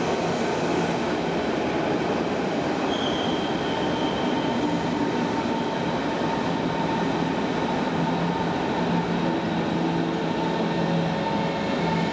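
Berlin S-Bahn electric train running through the station with a steady rumble, joined about four seconds in by steady hum tones at a few pitches.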